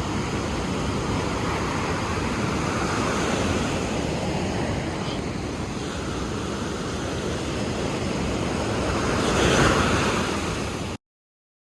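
Ocean surf: waves washing in with a steady rushing noise, swelling louder as a wave breaks about nine and a half seconds in. The sound cuts off suddenly near the end.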